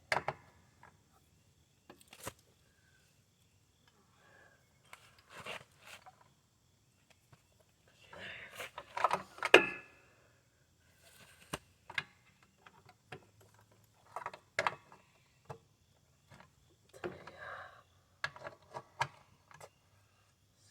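Metal hand tools and sockets clinking and clattering against the mower deck, with scattered clicks and knocks and a busier burst of rattling about halfway through.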